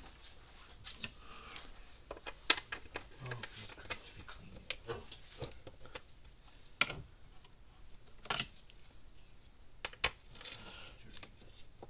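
Scattered sharp metal clicks and clinks of small hand tools and driver bits being handled and tried on tamper-proof screws, with a few louder clacks spread through.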